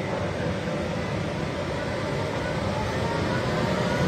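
Double-deck electric commuter train pulling out of an underground station: a steady rumble of motors and wheels, with a faint whine that rises in pitch and grows a little louder as it gathers speed.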